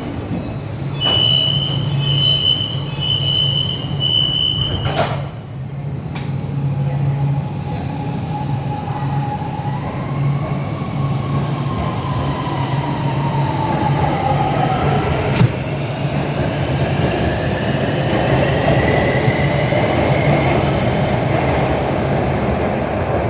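Shenzhen Metro Line 8 train: a pulsed high door-warning beep for the first few seconds, then sharp knocks as the doors shut. After that the train pulls away, its electric traction motors giving off a whine that glides and mostly rises in pitch, over a steady low hum.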